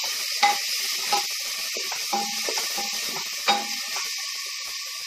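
Onion-tomato masala with curd frying in oil and ghee in a stainless steel pressure cooker, sizzling steadily while a wooden spatula stirs it, scraping and knocking against the pot a few times.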